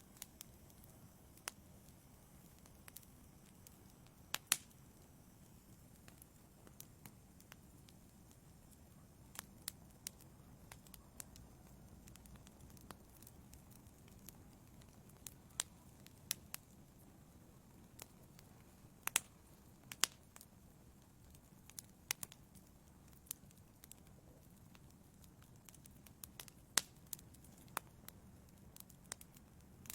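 Wood fire burning in a fireplace: irregular sharp crackles and pops over a low, steady rumble of the flames, with a few louder pops among them.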